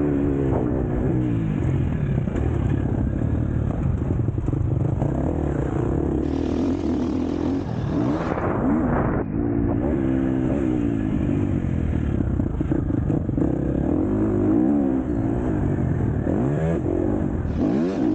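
KTM SX-F four-stroke motocross bike under race riding, the engine revving up and dropping back over and over as the throttle is opened and shut and gears change.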